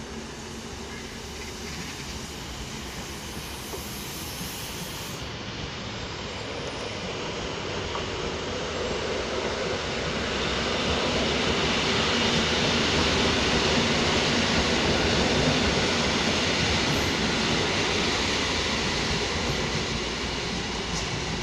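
PKP Intercity Stadler FLIRT electric multiple unit passing close on the tracks: the steady rush of wheels and running gear swells from about ten seconds in, peaks, then eases near the end.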